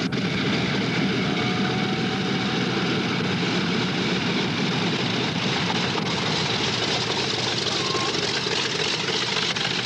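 A propeller aircraft's engine running steadily at low power, with no rise or fall in pitch.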